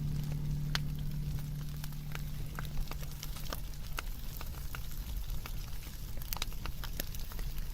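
Wood fire crackling, with scattered sharp pops and snaps over a faint hiss. A low steady hum fades out in the first couple of seconds.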